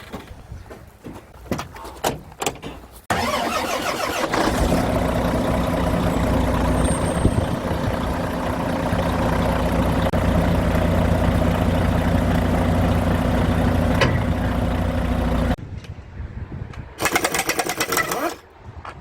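Volvo truck diesel engine cutting in suddenly about three seconds in and running steadily for about twelve seconds, then stopping abruptly. A few knocks and clicks come before it, and a short burst follows near the end.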